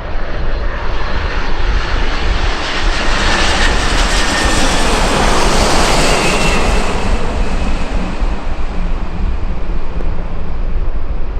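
Airliner's engines as the aircraft passes close by, a loud noise with a deep rumble that swells to a peak about halfway through and then eases, with a faint high whine at its height.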